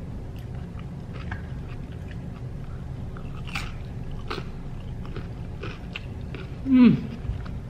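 Close-up chewing of a salad, with many small wet crunches and mouth clicks, over a steady low background hum. Near the end, one short voiced hum that falls in pitch is the loudest sound.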